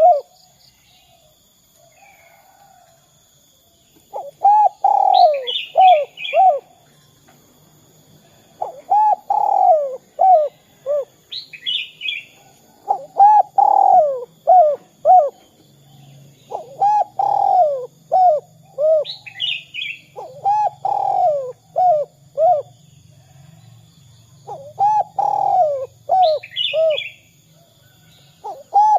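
Spotted dove (derkuku) cooing in repeated phrases of four or five coos, one phrase about every four seconds after a quiet start. Another bird's short high chirps come every six or seven seconds.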